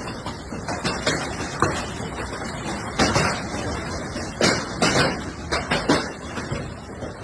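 Hailstones pelting down in a dense, continuous clatter, with heavier single stones hitting hard and standing out irregularly, loudest about three, four and a half and five seconds in.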